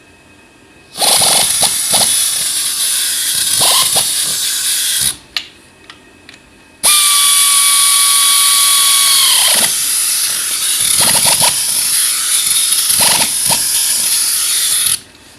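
Compressed air hissing from a pneumatic tool in two long bursts, the second carrying a steady whistle that drops away partway through, with a few short knocks.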